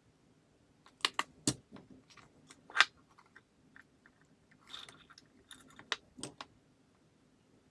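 Irregular sharp clicks and knocks, with a short scrape about five seconds in: small plastic parts and tools being handled during a lantern switch repair.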